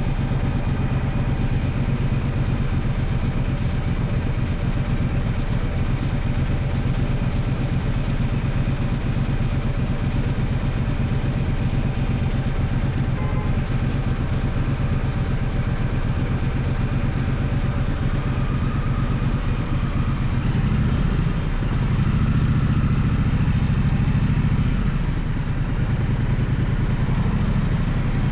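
Gaokin GK1200 motorcycle engine running steadily under way, swelling louder for a few seconds about three quarters of the way through.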